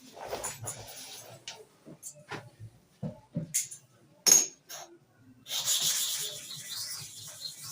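Hair-clipper blade being handled with a few sharp metallic clicks and knocks, then a steady scraping as it is rubbed on a sharpening stone, starting a little past halfway.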